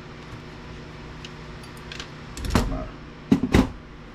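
Tools and small parts being handled on a workbench: a loud knock about two and a half seconds in, then two sharp clicks close together, over a steady background hum.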